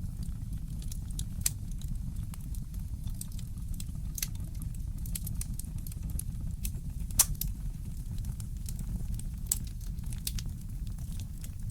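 Wood fire crackling in a fireplace: scattered sharp pops and snaps over a steady low rumble, the loudest pop about seven seconds in.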